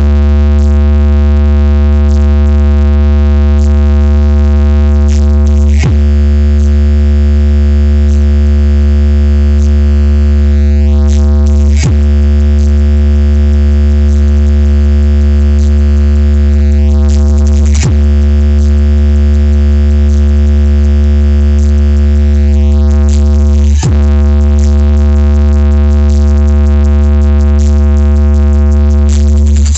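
Bass-heavy electronic music played loud through a home-built sound box with an 18-inch JBL Tornado 1100 W RMS subwoofer. A deep, steady bass note dominates, and about every six seconds a rising sweep ends in a short hit.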